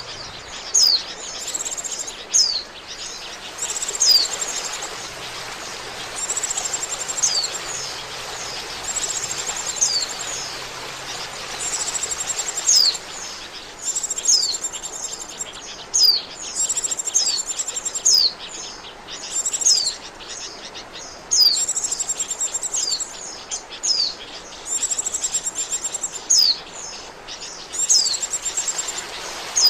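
White-eye (pleci) lure call: bursts of rapid, high chirping, each with sharp falling notes, repeated every one to two seconds over a steady hiss.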